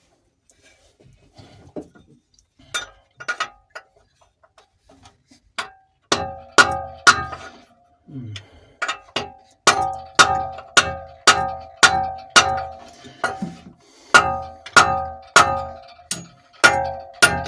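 Hammer blows on metal, each ringing briefly: a few light taps at first, then about six seconds in a steady run of hard strikes, roughly two a second.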